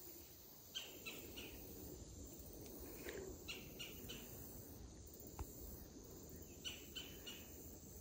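Faint bird calls: short high chirps in groups of about three, repeated every few seconds, over a faint steady high hiss. A single sharp click comes a little past the middle.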